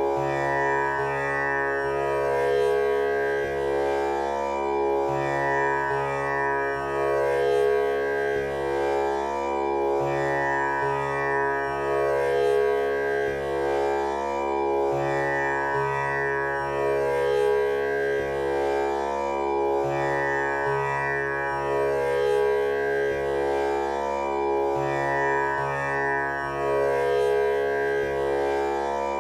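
Tanpura drone tuned to C#, its strings plucked one after another in a cycle that repeats about every five seconds, each note ringing into the next.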